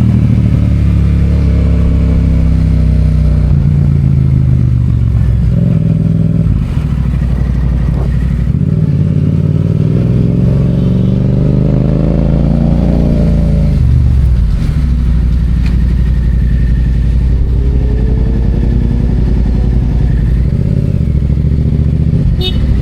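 Yamaha FZ-07's 689 cc parallel-twin engine running under way, its pitch rising and falling several times as the rider accelerates and eases off.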